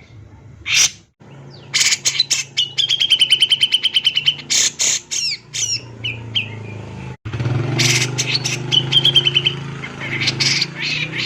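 Cucak jenggot (grey-cheeked bulbul) calling in the agitated, fast-firing style of a lure recording: harsh sharp notes and quick rattling trills, including a steady trill of about two seconds early on the recording and a shorter one near the end. A low hum runs beneath, and the sound drops out briefly about seven seconds in.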